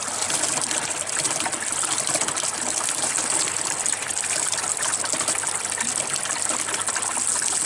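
Washing machine waste water gushing and splashing steadily through the drain pipework as the machine pumps out.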